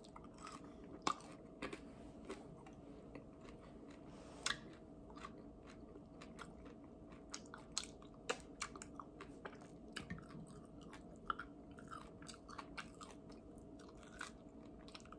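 Faint eating sounds from barbecue chicken wings and a fry: biting and chewing close to the microphone, with irregular small crunches and clicks.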